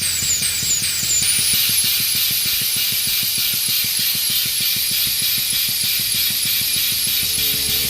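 Air tool running steadily with a rapid low ticking and a hiss of air, over a repeating high squeak about three times a second that jumps up in pitch about a second in.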